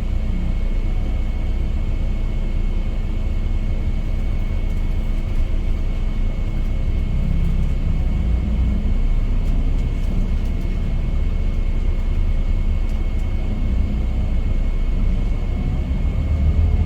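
Scania K410IB coach running steadily on the road, a continuous low engine rumble and road noise with a faint steady high whine.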